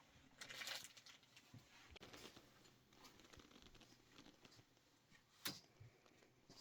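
Near silence with faint handling sounds: a brief rustle under a second in and a single sharp click about five and a half seconds in.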